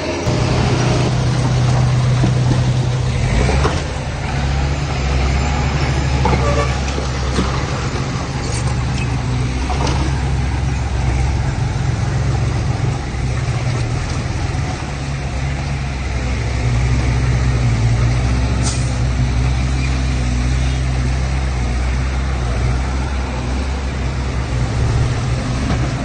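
Heavy diesel engine running steadily, a deep continuous drone, with a few sharp clicks or knocks from the machine.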